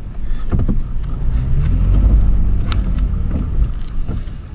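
Toyota 4Runner's V6 engine working under load in the dunes, its pitch swelling and bending through the middle, over a heavy low rumble. A few sharp knocks come through, about half a second, near three seconds and a little later.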